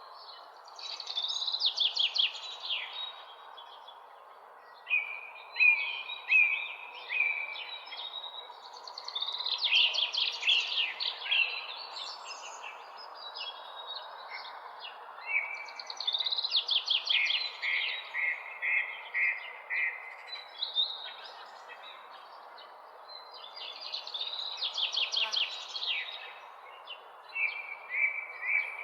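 Songbirds singing at dawn: a phrase of quick, high sweeping notes that ends in a run of repeated lower chirps, sung again about every seven or eight seconds. A steady background hiss runs underneath.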